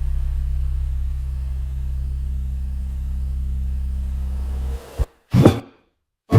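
A low, sustained ambient drone of several steady tones, slowly fading, cuts off near the end. Then come two short whooshing bursts with a brief silent gap between them.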